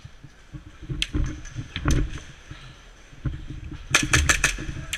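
Airsoft gunfire: a quick string of about five sharp cracks about four seconds in, with a couple of single cracks earlier, over a low, uneven rumble.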